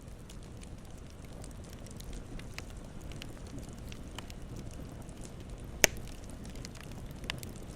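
Campfire burning steadily, with scattered crackles and one loud, sharp pop from the burning wood near the middle.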